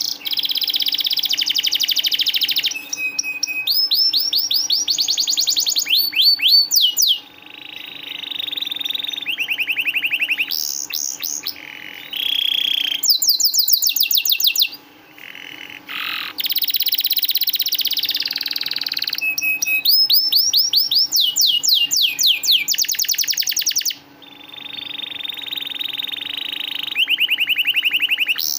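Domestic canary singing continuously: phrase after phrase of fast trills and rapid repeated rising and falling sweeps, each type held for a second or two before switching.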